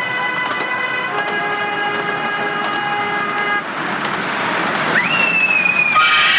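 Miniature steam locomotive whistle blowing: a steady blast that drops to a lower note about a second in and cuts off after about three and a half seconds, then a hiss, then another whistle blast that starts sharply about five seconds in and slowly sags in pitch.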